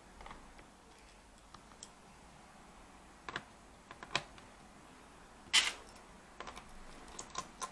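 Scattered sharp clicks and taps of small screws and a screwdriver on a laptop's plastic case during disassembly. The loudest click comes about five and a half seconds in, followed by a quick run of small clicks.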